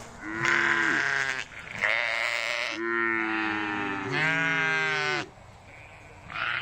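Sheep bleating: about four long, wavering calls one after another, then a short pause near the end.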